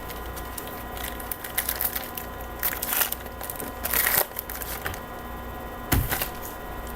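Trading cards and their pack being handled: several short crackling rustles, with a sharper one and a soft thump about six seconds in, over a steady electrical hum.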